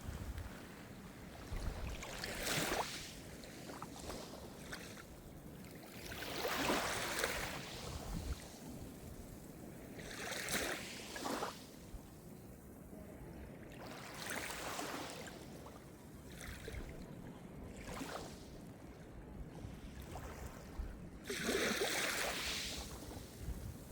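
Calm Mediterranean surf: small waves wash in, each a hiss that swells and fades away every few seconds, with the loudest wash near the end.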